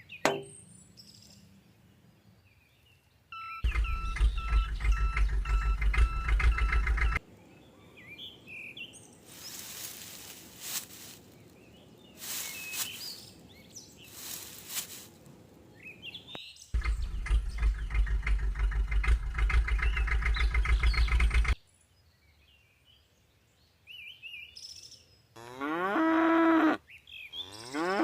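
Two stretches of loud, rhythmic mechanical buzzing, each a few seconds long and cutting off suddenly. Near the end comes a cow mooing: a call that slides down in pitch and then holds.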